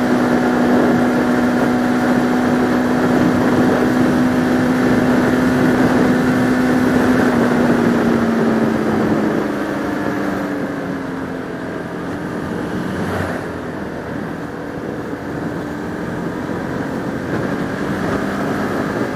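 Motorcycle engine, a Bajaj Pulsar RS200 single-cylinder, running at steady cruising revs with wind rushing over a helmet-mounted microphone. About halfway through, the engine note falls and gets quieter as the throttle is eased off, then holds steady at lower revs.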